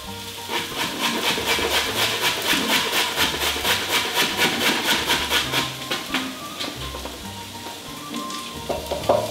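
A carrot being grated on a stainless steel box grater: rhythmic rasping strokes, about four or five a second, which stop about six seconds in.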